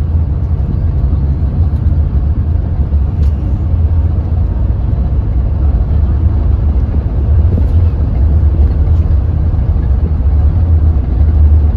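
Hyundai New Super Aero City CNG city bus engine running with a steady low drone that grows a little louder about seven seconds in.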